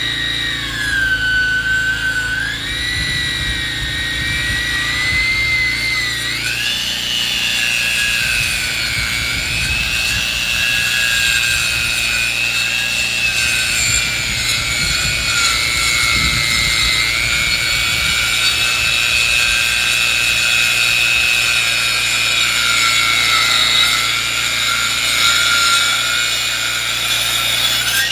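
Engine-driven saw milling a log, running steadily under load. Its pitch sags about a second in, picks back up after about six seconds, then wavers slightly as the cut goes on.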